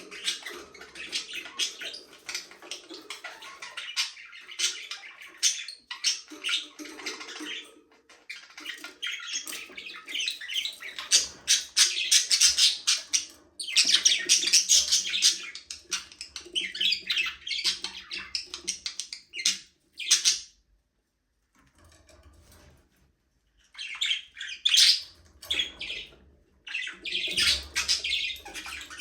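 A flock of budgerigars chattering: fast, continuous warbling chirps and squawks that break off for a few seconds about two-thirds of the way through, then start again.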